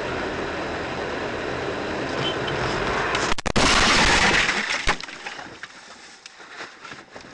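Steady car driving noise, then a car crash impact about three and a half seconds in: a loud burst of breaking noise that dies away over about a second, followed by scattered small clicks and knocks.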